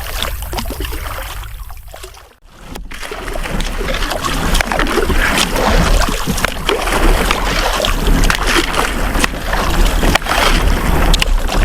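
Water rushing and splashing around a canoe, with knocks and splashes from paddling and strong wind rumble on the microphone. The sound drops out briefly about two and a half seconds in, then comes back louder.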